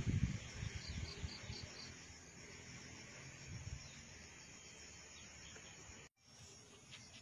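Insects chirping, likely crickets: a steady high buzz with a run of short, evenly spaced chirps about a second in. A few low thumps at the start, and the sound cuts out for an instant near the end.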